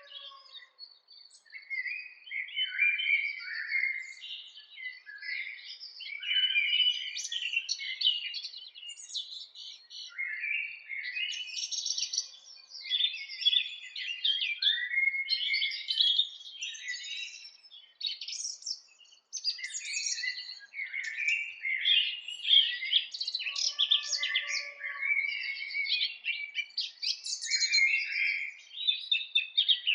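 Birds chirping and singing, many quick overlapping chirps and trills with no pause, with a lower drawn-out call about three quarters of the way through.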